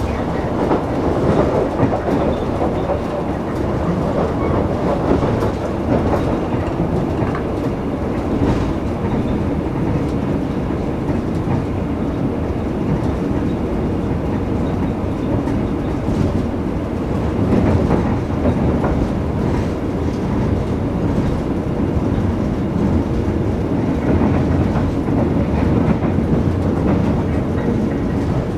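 Passenger train coach running at speed, heard from inside the coach: a steady rumble of wheels on the rails with occasional knocks.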